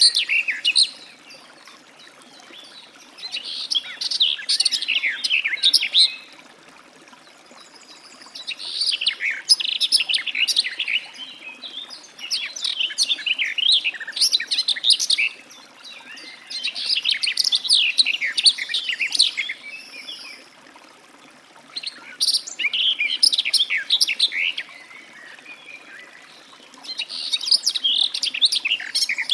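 Garden warbler singing: fast, jumbled warbling phrases about two to three seconds long, repeated with pauses of about two seconds between them, about six phrases in all.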